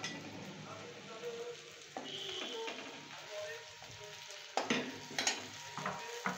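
Coconut fritters sizzling in hot oil in a steel wok. In the second half a metal spatula scrapes and knocks against the pan several times as the fritters are turned.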